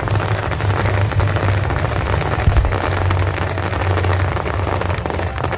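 Fireworks barrage: dense, continuous crackling over a steady low rumble of bursts.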